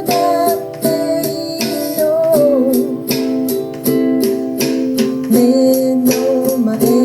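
Ukulele strummed in a steady rhythm of chords while a voice sings the melody over it.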